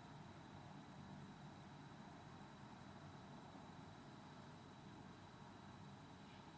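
Quiet night ambience dominated by a steady, very high-pitched insect trill that pulses rapidly; no owl calls are heard.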